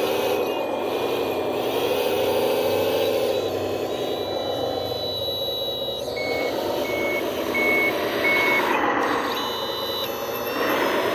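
Heavy earthmoving machine's diesel engine running, its pitch rising and falling as it works, with a reversing alarm beeping four times about six seconds in.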